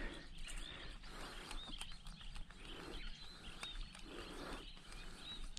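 Faint outdoor ambience with small birds chirping: short, high chirps repeating irregularly over a steady low background hiss.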